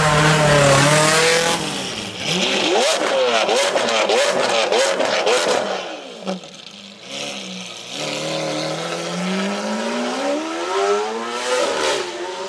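A Porsche 356 Outlaw's engine revs in quick rising blips with sharp pops. After a brief lull, a Lamborghini Aventador Roadster's V12 accelerates away in one long rising note.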